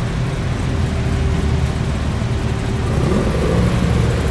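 A car engine running steadily at low revs, with no clear revving.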